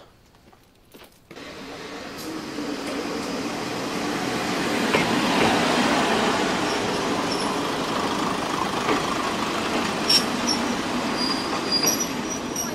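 A Kominato Railway diesel railcar running past close by. The sound of its diesel engine and wheels on the rails comes up from near quiet after about a second and grows to a steady loud noise. Near the end there are thin high squeals.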